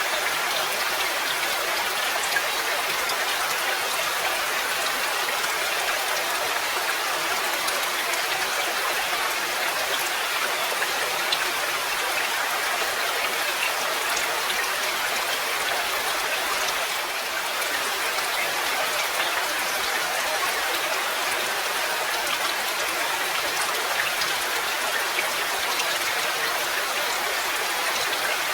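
Steady rain, a dense even hiss full of small drop ticks, with no thunder and little low rumble.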